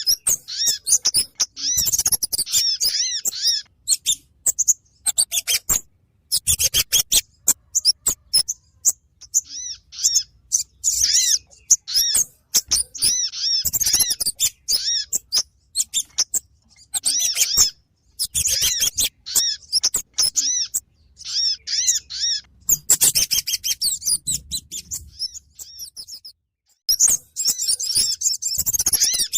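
Lure recording of kemade and sogon bird calls: bouts of rapid, repeated high chirping notes mixed with sharp clicks, stopping and starting every few seconds.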